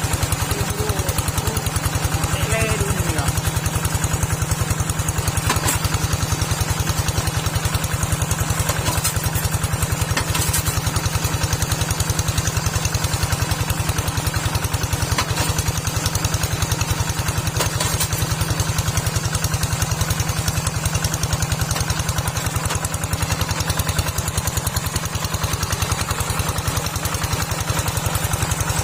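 Small tractor engine running steadily with a fast, even putter.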